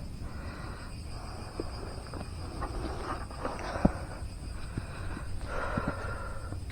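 Footsteps and rustling on a forest trail, with scattered twig-like clicks, over a steady high chirring of insects.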